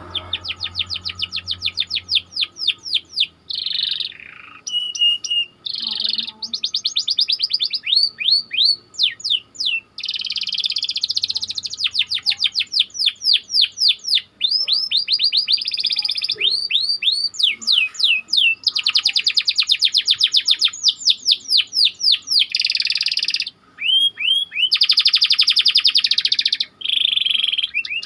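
Domestic canary singing a long, dense rolling song: fast trills of repeated sweeping notes alternating with tight buzzy rolls, broken only by a few brief pauses.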